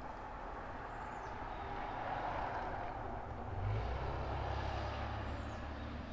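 Outdoor water-and-wind ambience: a steady rush of flowing water that swells and eases. A low rumble comes in about halfway through and grows louder. Two faint, short, high bird chirps are heard.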